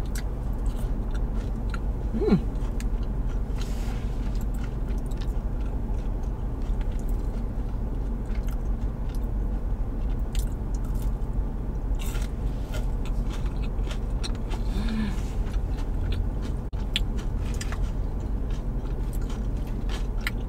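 Close-miked biting and chewing of tater tots dipped in ranch, with scattered short crunches and wet mouth clicks over a steady low hum.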